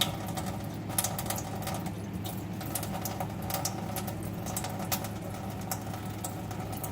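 Light, irregular splashing and pattering of water droplets as a green-cheeked conure bathes and flicks its wings, over a steady low hum.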